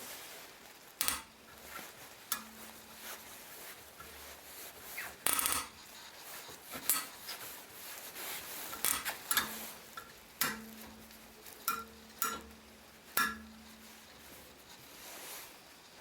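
Small metal parts being handled and worked by hand, giving irregular sharp metallic clinks and taps, about a dozen over the stretch, with a faint low hum under some of them.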